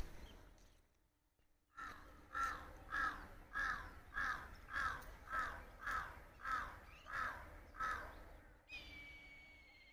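A crow cawing in a steady run of about ten harsh caws, roughly one every 0.6 s. Near the end a steady high tone comes in and holds.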